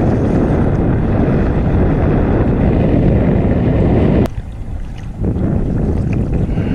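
Wind buffeting the microphone, a loud low rumble that drops off abruptly about four seconds in with a click, then picks up again.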